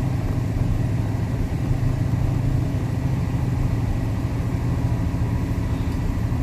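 1969 Lincoln Continental's 460 V8 idling steadily and smoothly, shortly after a cold start.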